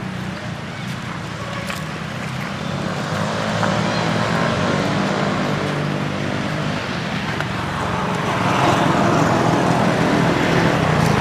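A motor vehicle's engine running steadily, growing louder near the end.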